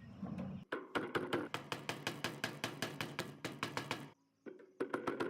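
Hand hammer striking rapidly and evenly, about five blows a second, starting just under a second in, with a short break about four seconds in before the blows resume.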